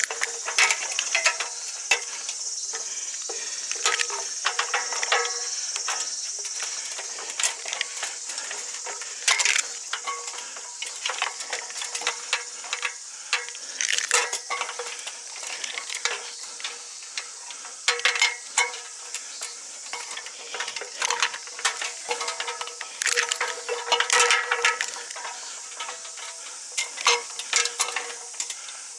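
Irregular metallic clinks and knocks with rustling, as climbing hardware and rope are handled, over a steady high hiss for the first several seconds.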